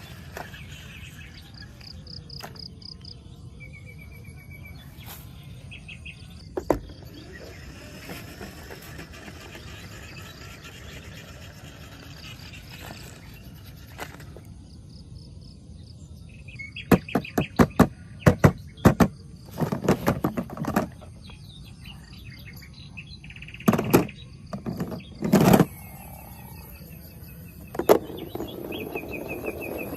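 Birds chirping in short repeated trills over steady outdoor background noise, with a run of loud sharp clacks and knocks about halfway through and a few more near the end.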